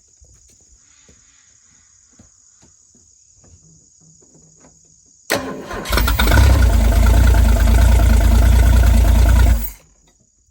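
Freshly rebuilt Ford 250 inline-six engine starting up about five seconds in and running loudly for about four seconds, then cutting off suddenly. Before it there are only a few faint ticks.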